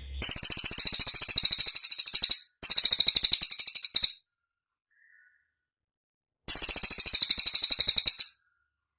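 Cililin bird singing three fast, high trills of rapidly repeated notes. The first two, about two seconds and a second and a half long, are almost back to back. After a pause of about two seconds comes a third trill of about two seconds.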